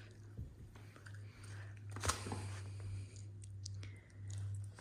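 Quiet room tone with a steady low hum, overlaid by scattered small clicks and rustles of handling noise, with one sharper click about two seconds in.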